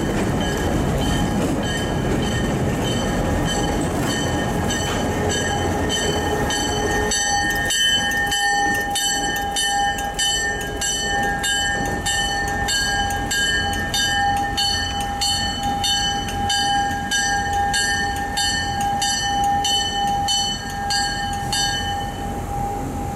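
Freight train boxcars rolling past close by with a steady rumble on the rails. About seven seconds in the rumble drops away and a bell rings steadily, about two strikes a second, as a diesel locomotive approaches slowly, stopping shortly before the end.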